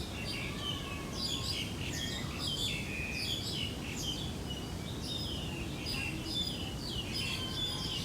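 Birds chirping and calling without pause, many short high notes overlapping, over a steady low background noise.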